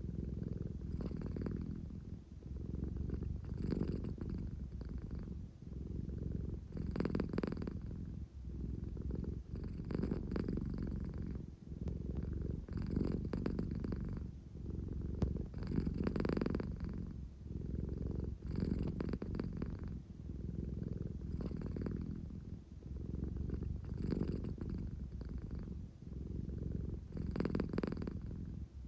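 American Shorthair cat purring steadily at close range, a low continuous rumble that swells and eases with each breath about every three seconds. It is the purr of a cat that is sleepy and wants affection.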